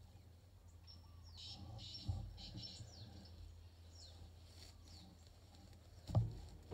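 Small birds chirping in short bursts over a faint low rumble, with one sudden low thump near the end.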